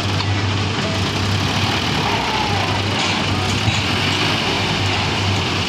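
Tractor engine running steadily, a low even hum under a constant wash of machinery noise.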